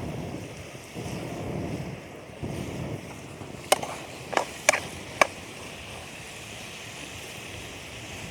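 Steady hiss of heavy rain, with low rustling in the first three seconds and four sharp knocks about a second and a half apart in total, a little before the middle of the clip.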